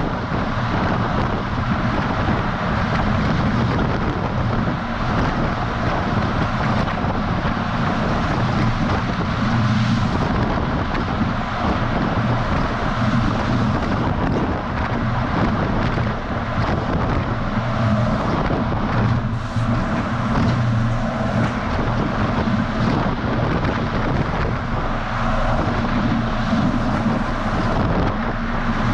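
A DAF XF semi-truck driving at steady speed, heard from a camera mounted on the outside of the truck: a constant low engine and tyre drone under loud wind rushing over the microphone.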